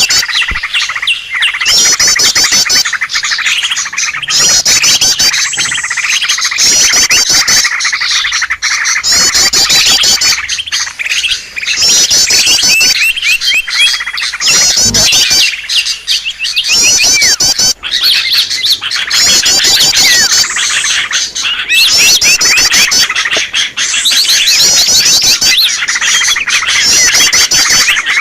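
Bird-lure recording of many small birds calling at once: a loud, unbroken chorus of chirps and squeaks, with a rapid high trill coming back every second or two.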